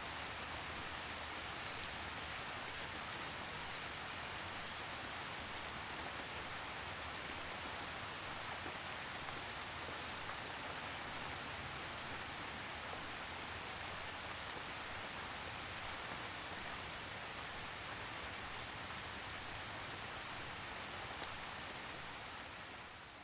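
Steady gentle rain falling on a surface, an even hiss with scattered drop ticks, fading out near the end.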